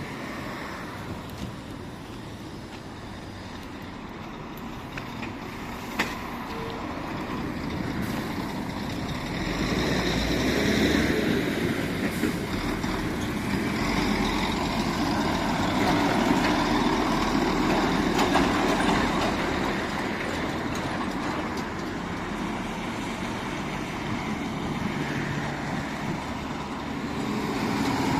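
Heavy vehicle engine running with a low rumble, growing louder about ten seconds in, with a single sharp click partway through.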